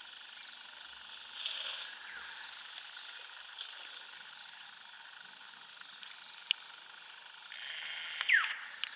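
Steady chorus of calling forest animals, with a few brief chirps. A louder stretch comes near the end, with a falling call.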